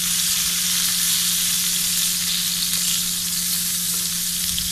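Slices of spiced eggplant (brinjal) frying in hot oil in a kadai: a steady sizzle.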